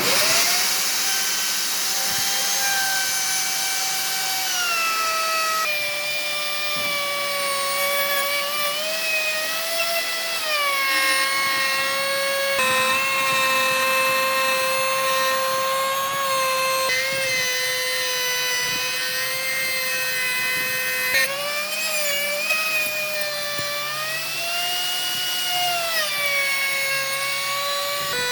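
Electric power tool motor whining steadily as it cuts wood. Its pitch sags and recovers repeatedly as the load on the cut changes.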